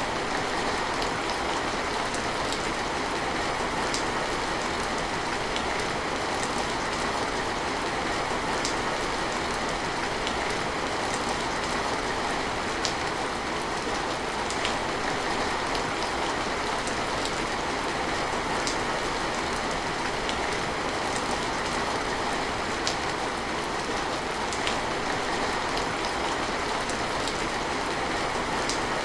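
Steady rain falling, an even hiss with scattered sharp drop ticks every second or two.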